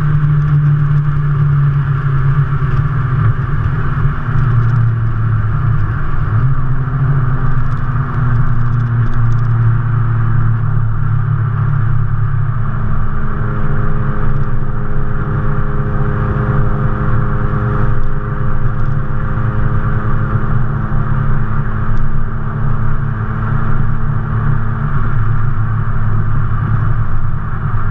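Mazdaspeed3's turbocharged 2.3-litre four-cylinder, fitted with a GTX3071 turbo, running steadily through its exhaust at an even, low speed. Its pitch sags slightly over the first dozen seconds and then holds steady.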